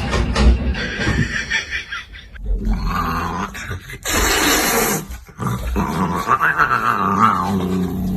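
Animal noises, with a hissing noise lasting about a second, around four seconds in.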